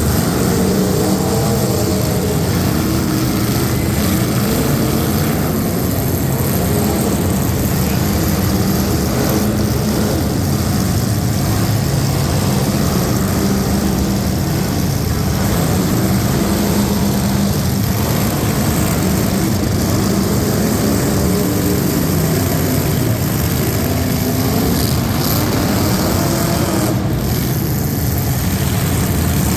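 Loud, steady engine noise from competing trucks, the pitch wavering slightly without stopping.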